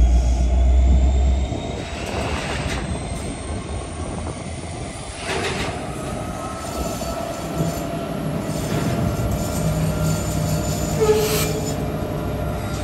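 Freight train of covered hopper cars rolling past, the wheels rumbling on the rail with a thin high wheel squeal and a few knocks. The rumble is heaviest in the first second and a half. A low steady diesel engine hum comes in from about halfway, as the locomotives draw near.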